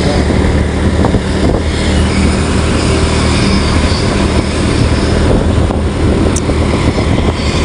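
A vehicle engine running steadily under a loud, even rush of noise.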